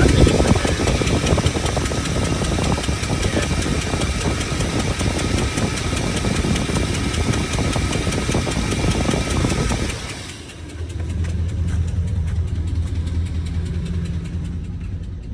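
4.8-litre LS V8 idling with a fast even pulsing from an exhaust leak at the headers, still misfiring after new plugs and wires, which the owner thinks could be the coil packs. About ten seconds in the sound drops and turns to a steadier low hum.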